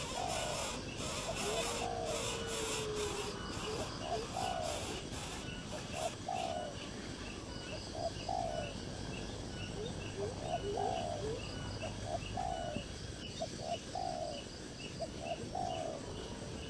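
A bird calling repeatedly: short falling notes, often in pairs, every one to two seconds, with one longer, lower note near the start. A fast, steady ticking runs underneath.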